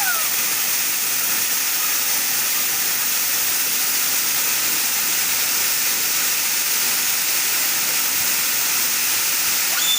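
Waterfall running: a steady, even hiss of falling water.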